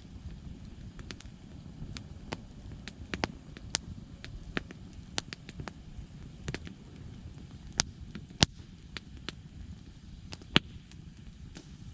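Wood campfire crackling, with irregular sharp pops and snaps, two of them louder than the rest in the second half, over a steady low rumble.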